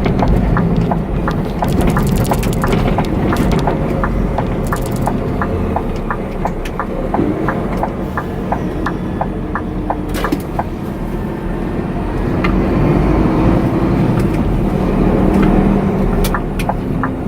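Scania truck driving, its diesel engine and road noise running steadily, with a regular light ticking about three times a second through most of it.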